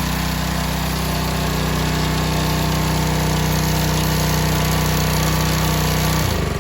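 BE gas pressure washer's small engine running steadily, then switched off with its off switch near the end, its pitch dropping as it winds down.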